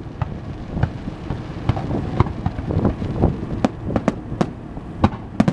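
Aerial fireworks bursting: an irregular string of sharp bangs, about two a second, over a continuous low rumble.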